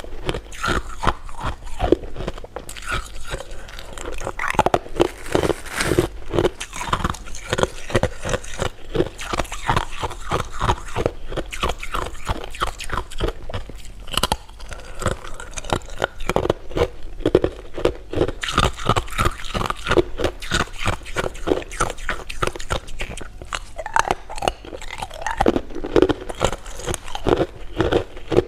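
Close-up chewing and crunching of candy: a continuous run of rapid, crisp crunches and wet mouth clicks.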